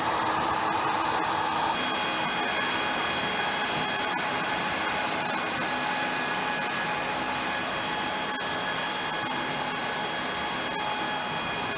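Aircraft jet turbine running steadily: an even rushing roar with several high, steady whining tones. A mid-pitched tone drops out about two seconds in.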